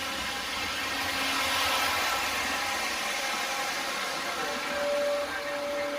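O-scale three-rail model SD70ACe diesel locomotives running laps at speed: wheels rolling on the track mixed with the locomotives' onboard diesel engine sound effects, swelling about two seconds in. A steady single tone joins about four and a half seconds in.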